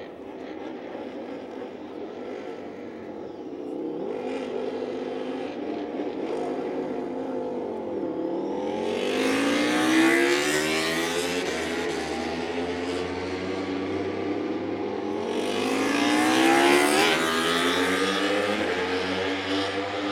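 Honda RC213V MotoGP bikes' 1000 cc V4 four-stroke engines revving on track, the pitch rising and falling through the gears, with two loud pass-bys, about ten seconds in and again near seventeen seconds.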